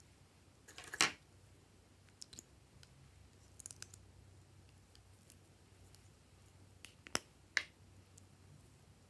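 Glossy slime being pressed and pulled by hand, giving sharp sticky clicks and pops: the loudest about a second in, a few small ones in the middle, and two more near the end.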